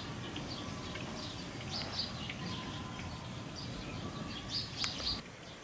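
Small birds chirping with many short, high calls while feeding, over a steady low background rumble, with one sharp click a little before the end.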